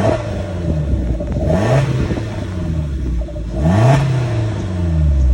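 Suzuki Jimny Sierra's four-cylinder engine breathing through an aftermarket DUSSEL sport muffler, idling and blipped twice, the exhaust note rising and falling back to idle about two seconds apart.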